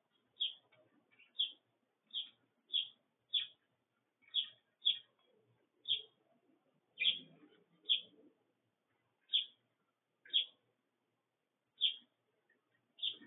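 Sparrows chirping: single short, high chirps repeated at an uneven pace of about one a second, with a brief low rustle around the middle.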